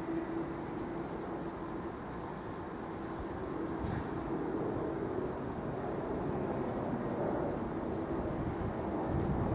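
Electric suburban trains, South Western Railway Class 455 units, running on curved track: a steady rumble with a held low hum. Quick, repeated high ticks run over it throughout.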